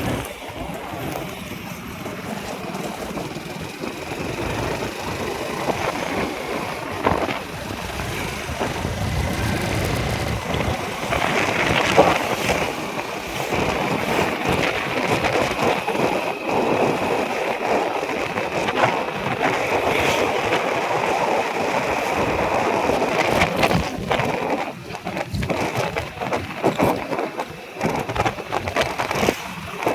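Road vehicle noise, engines and tyres of passing traffic, a continuous rising and falling din that gets louder about a third of the way in.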